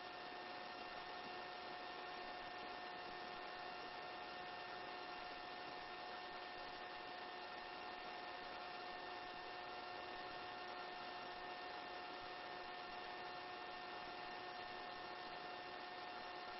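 Faint steady hum and hiss of a helicopter in flight, with a few fixed steady tones and no change throughout.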